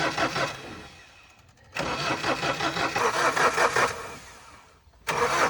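A truck engine is cranked by its starter in three separate tries, with a steady pulsing churn each time. The first try runs just under a second, the second two to three seconds from about two seconds in, and the third starts near the end. Each stops without the engine catching and running.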